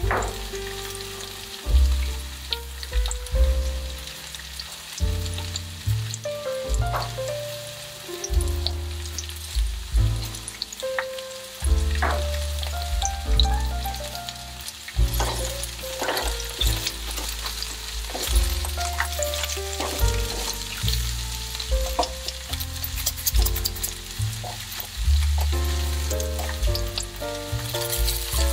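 Sliced zucchini sizzling in a frying pan, under background music with a deep, stepping bass line that is the loudest part.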